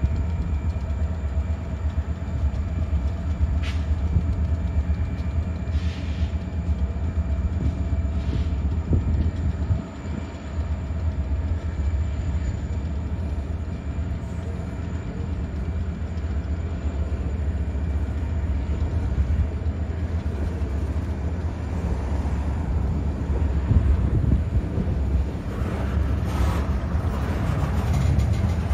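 A string of diesel locomotives rolling slowly past: a steady low engine rumble with a few sharp wheel clicks, getting busier with clatter near the end.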